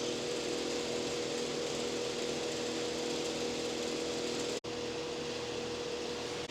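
A motor-driven machine running steadily: a constant hum over an even rushing noise. The sound drops out for an instant about four and a half seconds in, then carries on unchanged.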